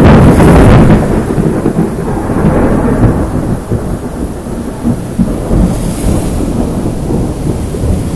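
A thunderclap that breaks in suddenly and is very loud for about a second, then rolls on as a long low rumble that slowly fades, over steady rain.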